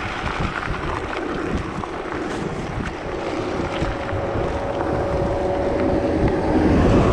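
Wind buffeting the microphone while riding a mountain bike on a gravel road into a headwind. A faint steady hum joins about three seconds in, and the noise grows louder near the end.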